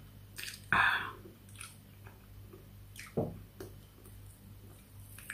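Close-miked mouth sounds of eating by hand: chewing and wet smacks of lips and fingers. The loudest smack comes about a second in and another about three seconds in.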